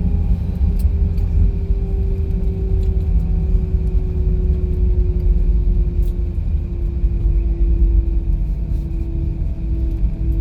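Airbus A319 cabin noise: a steady low rumble from the engines and airframe, with an engine whine that slowly falls in pitch.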